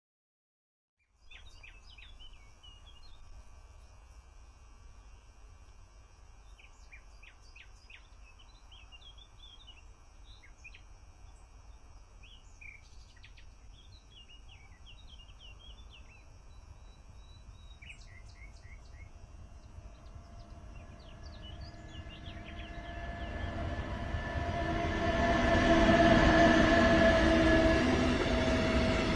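Birds chirping over a faint low rumble, then a freight train approaching that grows loud from about twenty seconds in, as its tank wagons roll past close by on the rails, with several steady tones in the noise.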